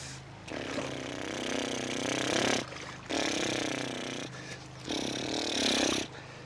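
Remote-control monster trucks' electric motors and gearing whining in three throttle bursts, the pitch rising and falling as the trucks drive over rough ground.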